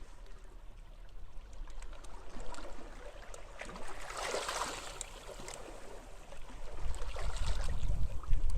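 Sea waves washing onto a beach: one wave swells into a hissing wash about halfway through and fades. Low wind buffeting on the microphone rises near the end.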